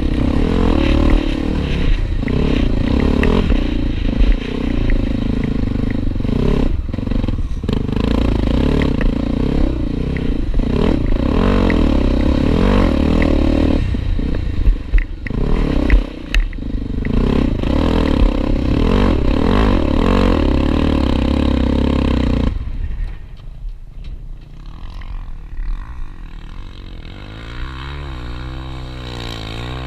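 Honda Tornado 250 single-cylinder motorcycle engine running under load, its pitch rising and falling with the throttle, with some clatter. About 22 seconds in the sound drops away sharply, and near the end a quieter, steady engine note sets in.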